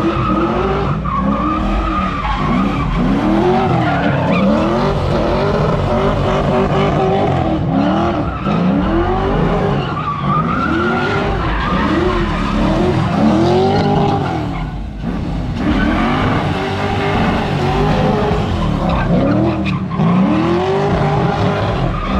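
A car doing donuts: the engine revs up and down about once a second while the rear tyres squeal and skid continuously.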